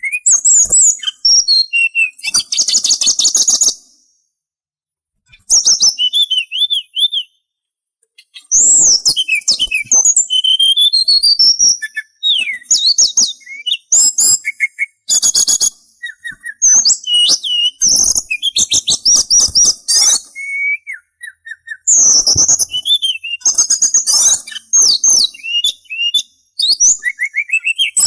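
A sulingan songbird singing a varied run of clear whistled notes that slide up and down, mixed with fast high trills and chirps, in phrases broken by a couple of short pauses.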